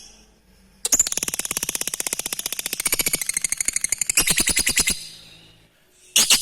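Lovebird's ngekek song: a long, very rapid rattling chatter of sharp high notes lasting about four seconds, followed near the end by a short sharp chirp.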